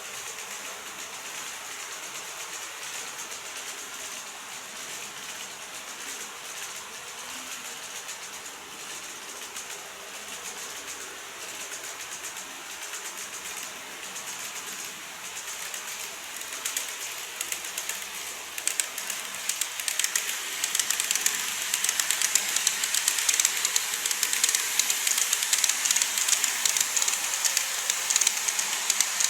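Model train running on layout track: a steady rolling hiss with rapid fine clicking of wheels over rail joints, growing clearly louder about two-thirds of the way through as the train comes close.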